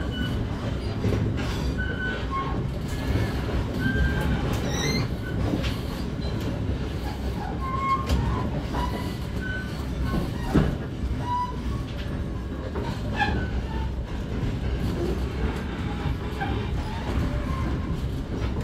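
Passenger train running, heard from inside the coach: a steady low rumble of wheels on track, with scattered brief high squeals and one rising chirp about five seconds in.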